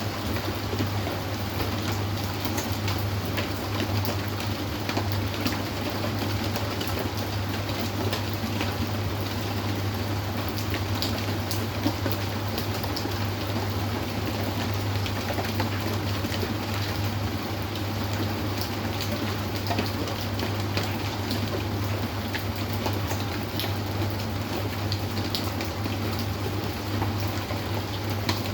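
Steady rain falling, with many individual drops heard as sharp ticks, over a steady low hum.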